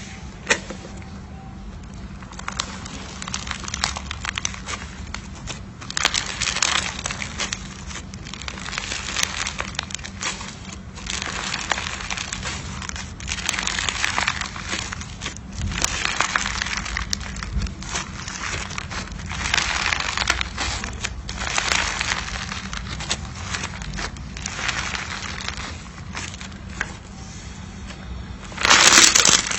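Slime being squeezed and pressed by hand, making bursts of many small pops and clicks, one every second or two, with a louder burst near the end.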